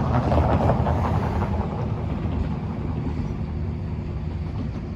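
Steady low rumble of a running vehicle, a little louder in the first second or so, then easing off.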